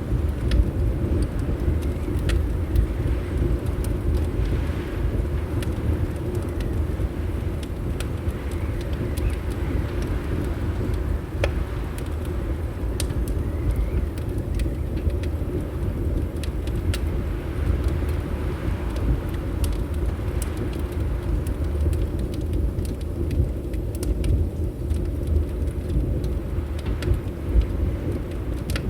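Wood fire crackling in a fireplace, with irregular sharp pops and clicks, over a steady deep rumble of wind against windows.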